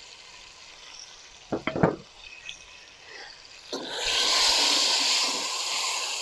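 Tomato wedges sizzling in hot oil in an aluminium pot as they are stirred with a wooden spatula. The sizzle starts suddenly a little before four seconds in, loudest at first, then slowly dies down.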